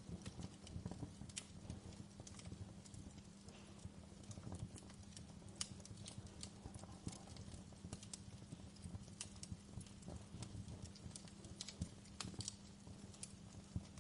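Wood fire crackling: many small, sharp pops and snaps at irregular moments over a low, steady rumble.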